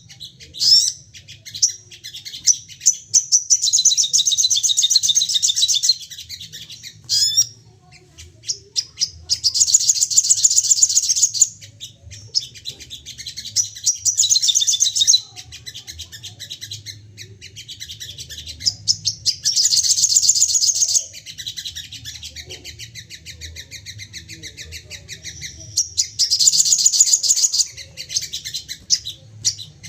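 Sogon birds calling in repeated bursts of rapid, rattling high notes, each burst lasting a second or three and coming back every few seconds, with softer chattering between. This aggressive 'firing' call is used by bird keepers to provoke other sogon to sing.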